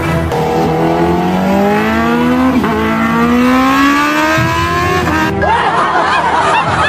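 A car engine accelerating, its pitch rising steadily for about five seconds, over a background music bed; it cuts off suddenly near the end.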